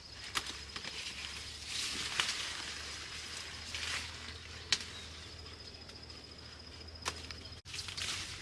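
Rustling of plants being handled, with four sharp snaps spaced about two to two and a half seconds apart.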